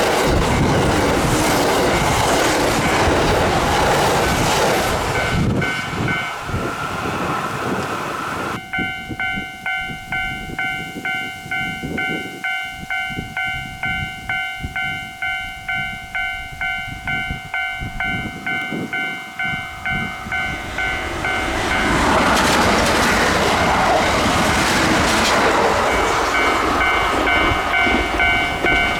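A Kintetsu train runs past at speed for the first few seconds, then a level-crossing warning bell rings on and on, pulsing about twice a second. A second train rushes past near the end while the bell keeps ringing.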